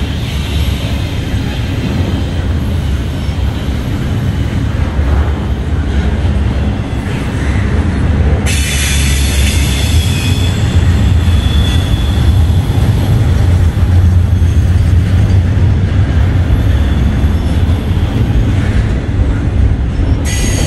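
Double-stack intermodal freight train's loaded well cars rolling past, a steady loud rumble of steel wheels on the rails. About eight seconds in, a high hiss and thin wheel squeal join the rumble.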